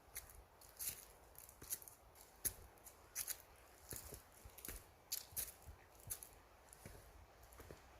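A hiker's footsteps crunching on a mountain trail: faint, uneven crunches, a bit under two a second.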